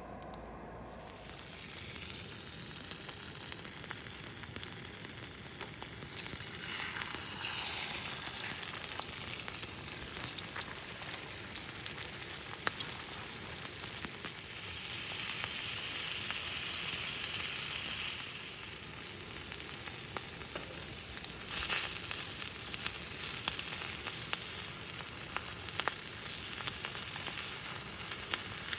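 Food frying in a pan: a steady sizzle full of small pops. It starts about a second and a half in and grows louder toward the end.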